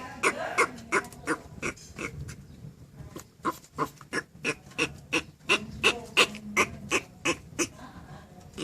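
Turtle making short rhythmic calls, about three a second, with a brief lull partway through, as the turtle calls to its mate.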